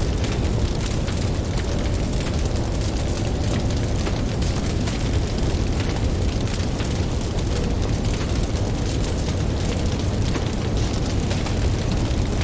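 Campfire crackling, with many small pops over a steady low rumble of ocean waves.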